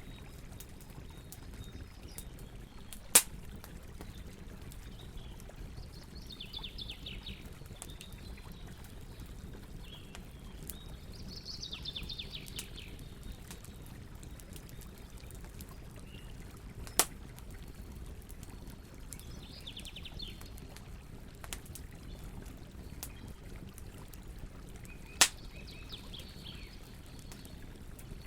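Campfire burning with a steady low rumble, faint crackling and three sharp loud pops spread through. Birds sing in short trilled phrases, four times or so.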